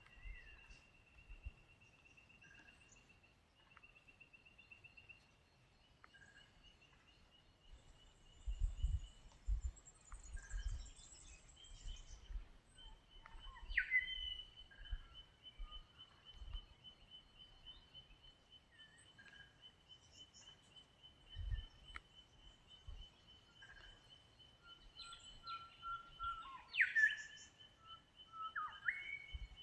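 Rural morning birdsong: a long rapid trill held on one pitch runs under scattered chirps, with sharp swooping calls about halfway through and again near the end. A few low thumps sound in the first half.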